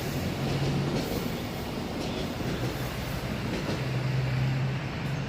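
Passing train: a steady rushing rumble with a low hum that fades in and out a few times, cutting off abruptly at the end.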